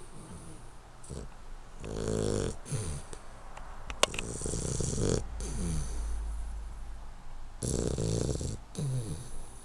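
Hungarian Vizsla puppy snoring in its sleep, a buzzing snore with each slow breath every two to three seconds. A single sharp click about four seconds in.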